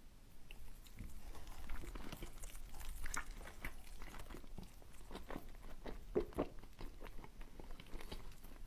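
A person biting and chewing food close to the microphone: irregular wet mouth clicks and smacks.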